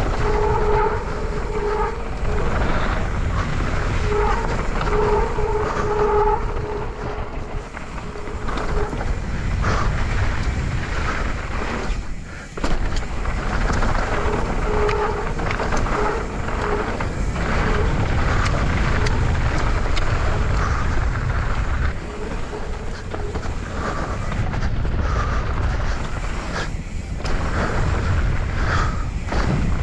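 Mountain bike (YT Capra) descending a dirt trail, heard from a helmet camera: wind on the microphone and tyres rolling over dirt make a steady rumble, with a constant patter of small rattles and knocks. A steady buzzing tone comes and goes in stretches, strongest in the first few seconds and again around the middle.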